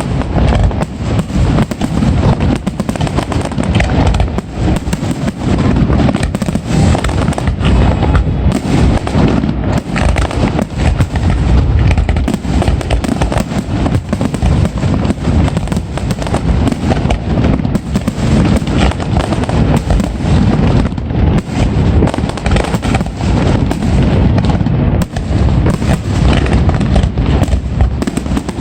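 Fireworks display at full intensity: a dense, continuous barrage of shell bursts and crackling bangs with no pauses, the rapid finale of the show.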